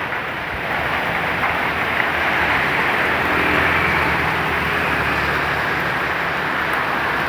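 Strong storm wind with heavy rain, a steady noisy rush that grows a little louder about a second in, with a low rumble underneath.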